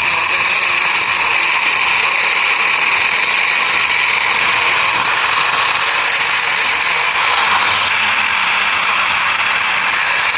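Toy school bus pushed along by hand, its plastic wheels and gears giving a steady mechanical whirr.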